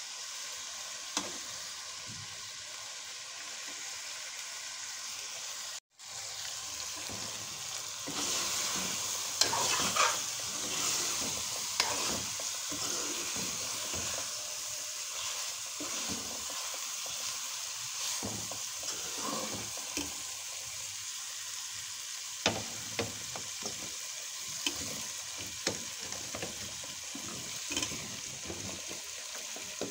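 Chicken pieces and raw potato chunks sizzling in masala in a metal pan, a steady frying hiss. After a brief dropout about six seconds in, the sizzle gets louder, and a metal spoon scrapes and knocks against the pan again and again as the food is stirred.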